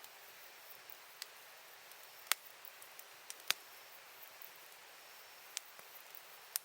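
Wood campfire crackling: about six sharp, irregular pops over a faint steady hiss, the loudest about two and three and a half seconds in.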